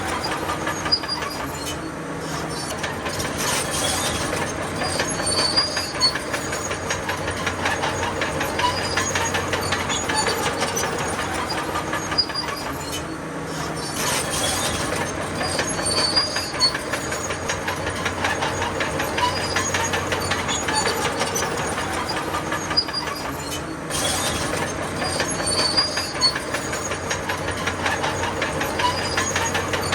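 Crawler bulldozer at work: its diesel engine runs steadily under a constant metallic clatter from the steel tracks.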